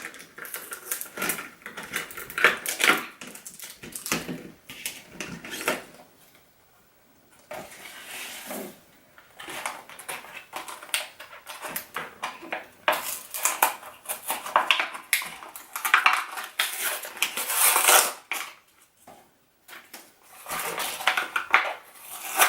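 Toy packaging being opened and handled: irregular crinkling, tearing and clicking of plastic and cardboard, with two brief pauses.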